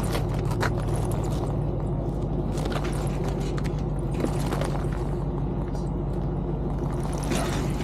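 Steady low rumble of a vehicle running at an even pace, with scattered light knocks and rattles.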